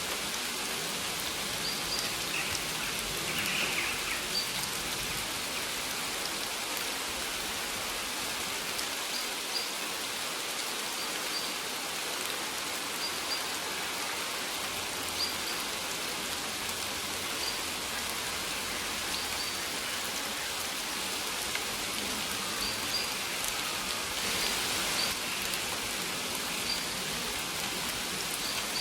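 Steady rain falling, an even hiss of drops, with short high bird chirps repeating every second or two over it.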